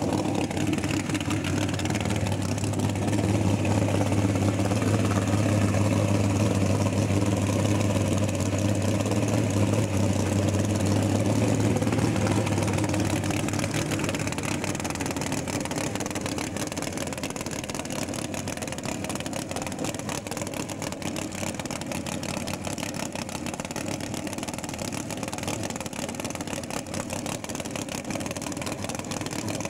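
V8 engine of a Mk1 Ford Cortina drag car running at a steady idle with a low, even note, becoming somewhat quieter about halfway through.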